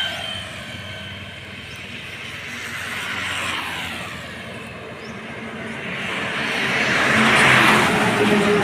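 Road traffic passing: vehicles going by with a rushing tyre and engine noise that swells twice, the louder pass about three-quarters of the way through.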